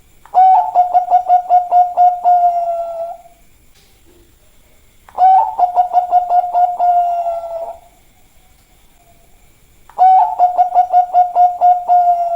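Zebra dove (perkutut) of the Thai-bred Bangkok type singing its cooing song three times, about five seconds apart. Each phrase is a rapid run of about six pulsed coos a second on one pitch, ending in a held note.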